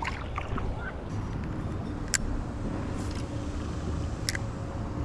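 A steady low outdoor rumble, with two short sharp clicks about two seconds apart and a faint steady hum starting a little over a second in.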